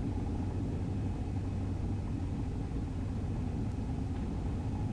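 Cessna 150's four-cylinder Continental O-200 engine running steadily, heard from inside the cockpit as a low, even hum.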